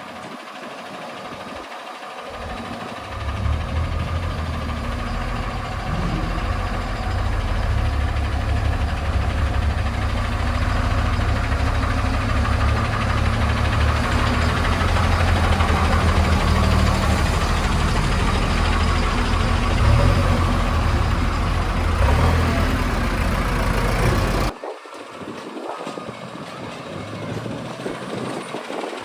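A heavy vehicle's diesel engine running, growing louder about three seconds in and holding steady, then dropping away suddenly a few seconds before the end.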